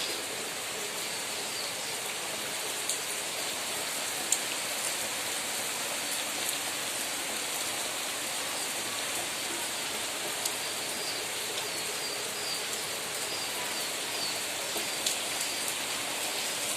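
Steady rain falling, with a few louder single drops or drips landing now and then.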